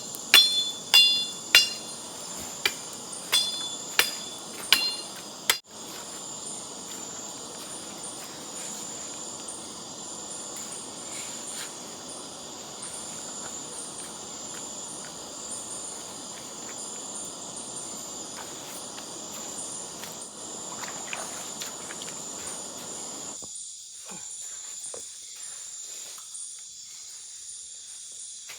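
About seven sharp metallic knocks, each with a brief ringing tone, in the first six seconds. Behind them a steady high chorus of forest insects runs throughout.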